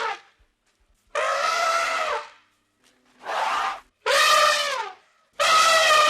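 An animal calling: four loud, pitched calls, each half a second to over a second long, most falling in pitch at the end.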